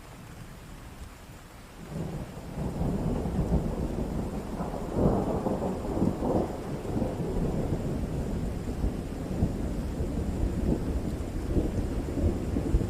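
Rain falling steadily, with a long roll of thunder that starts about two seconds in, peaks with crackling rumbles a few seconds later and keeps rumbling.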